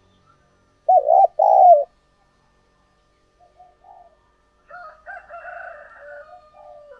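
Spotted dove cooing: two loud, low coo notes close together about a second in, then fainter, rougher calling through the second half.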